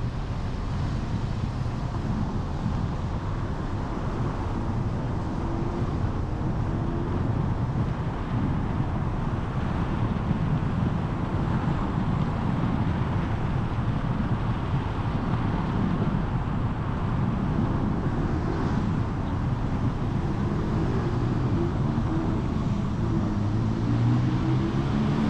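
Car driving on town streets: a steady low rumble of engine and tyre/road noise. The engine pitch rises briefly about a quarter of the way in and climbs again near the end as the car accelerates.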